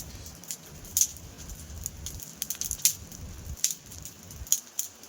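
Large wood bonfire crackling, with irregular sharp pops and snaps. A low rumble underneath dies away after about three seconds.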